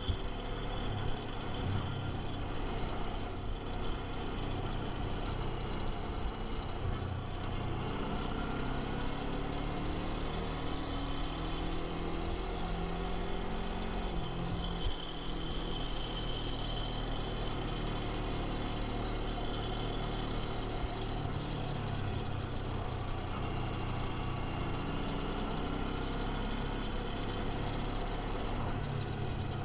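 Kawasaki Versys-X 250 parallel-twin motorcycle engine running steadily under way, its pitch rising and falling a little partway through. There is a brief high squeal about three seconds in.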